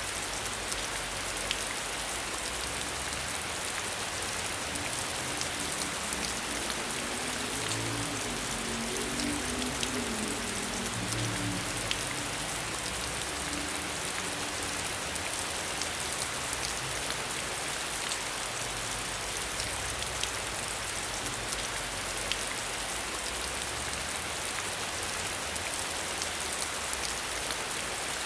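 Steady rain falling outside a window, with many small drops ticking against the pane.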